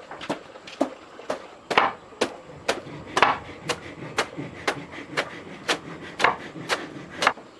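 A steady series of sharp knocks on wood, about two a second, evenly spaced.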